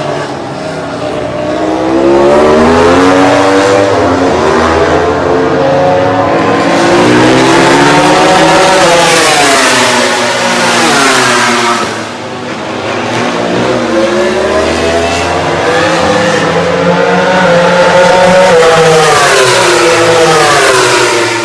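MotoGP prototype racing motorcycles going past at speed, their engines revving, with the pitch climbing and dropping through gear changes. Two loud passes, one about two seconds in and another about thirteen seconds in.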